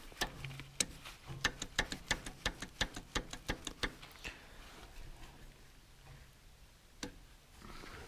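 A run of sharp clicks, about three a second for some three and a half seconds, then one more click near the end, from the metal parts of a homemade cylinder-liner puller being handled and set on the threaded rod.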